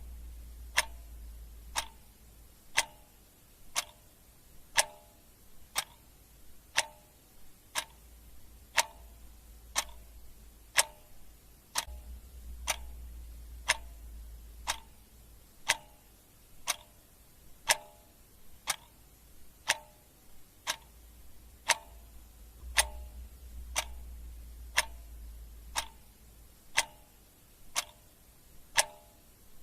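Clock ticking steadily, about one tick a second, with a faint low hum that comes and goes underneath.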